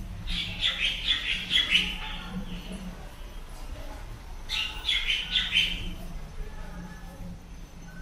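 Small birds chirping in two quick flurries of rapid twittering: one from about a second in lasting a couple of seconds, another a little past the middle.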